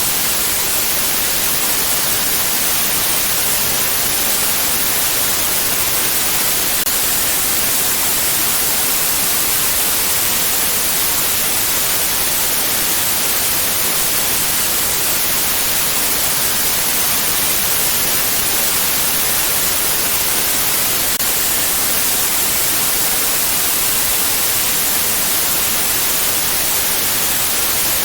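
Steady, unchanging white noise: an even hiss, strongest in the high treble, with no rhythm or breaks.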